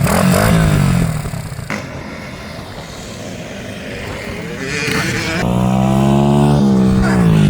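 BRZ 110cc pit bike's single-cylinder four-stroke engine being ridden: its pitch drops and the sound fades over the first second, stays quieter for a few seconds, then climbs and comes back loud about five seconds in, easing off in pitch near the end.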